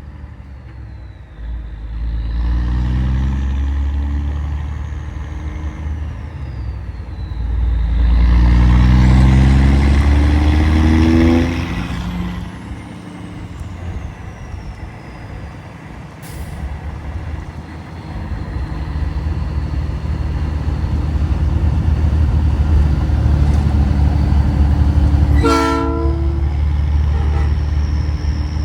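Big-rig truck's diesel engine pulling away, its pitch rising twice as it winds up through the gears, then settling into a steady drone at cruising speed. A brief horn blast sounds near the end.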